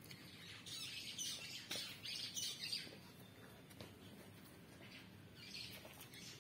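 Faint bird chirping: a flurry of high chirps from about a second in to about three seconds, and a few more near the end.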